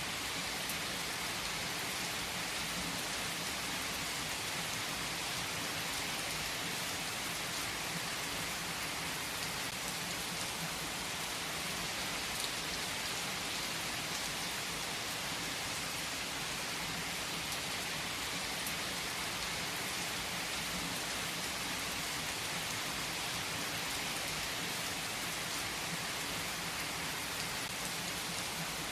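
Steady, even rainfall with a dense patter of drops hitting a surface, hissing throughout with no breaks or thunder claps.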